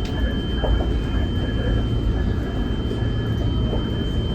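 Cabin noise inside a Nippon Sharyo diesel multiple unit under way: a steady low rumble of the running train, with a thin steady high-pitched tone over it.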